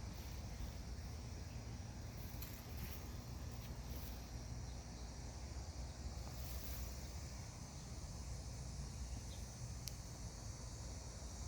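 Steady high-pitched insect chirring, as from crickets, over a low rumble, with a few faint clicks scattered through.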